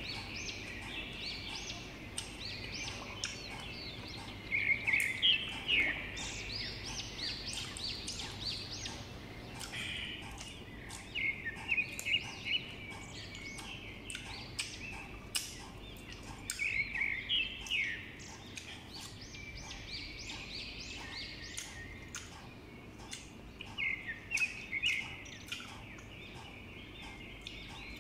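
Close-up chewing of crisp, unripe green mango slices: wet crunching and mouth smacking in bouts of many short, sharp crunches.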